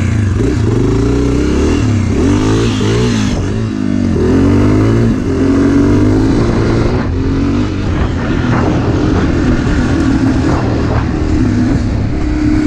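Dirt bike engine running loud, its revs rising and falling repeatedly as it is ridden.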